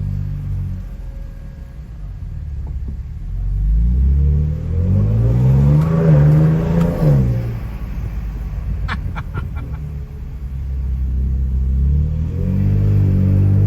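Ford Ranger Raptor's twin-turbo V6 accelerating hard in Baja mode, its exhaust at its loudest setting: the revs climb to a peak about six to seven seconds in, then fall as the throttle comes off, with a quick run of sharp pops around nine seconds, and the engine pulls again near the end. Heard from inside the cabin with the windows open.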